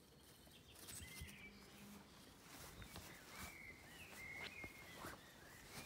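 Quiet outdoor ambience with a few short, faint bird chirps and some soft clicks and rustles.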